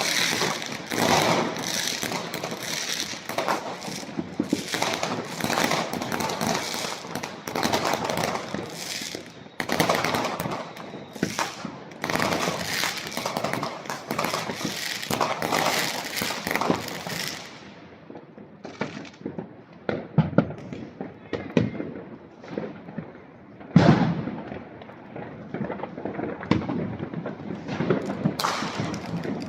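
New Year's fireworks and firecrackers going off: a dense barrage of overlapping bangs and crackling that thins out after about seventeen seconds to scattered single bangs, one of them much louder about three-quarters of the way through.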